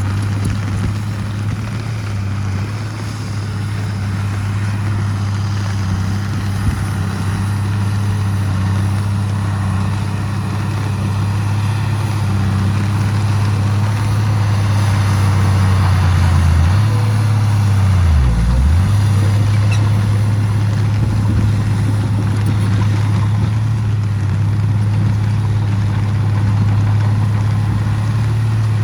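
Heavy diesel earthmoving machinery engine running steadily under load. About two thirds of the way through, its pitch dips briefly, then picks back up.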